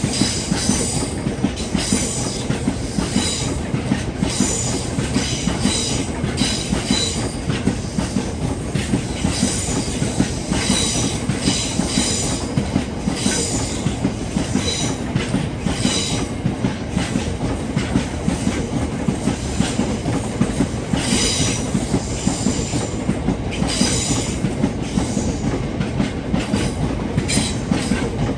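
Freight train of VTG JNA box wagons rolling past at close range: a steady heavy rumble of wheels on rail with a regular clatter over the rail joints, and high-pitched wheel squeals that come and go.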